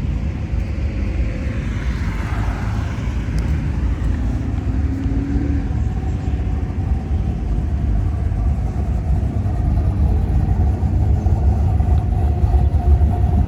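Car engines rumbling as classic cars drive slowly past, one passing with a falling sweep in the first few seconds. A steady whine joins the rumble about halfway through, and the rumble grows a little louder near the end.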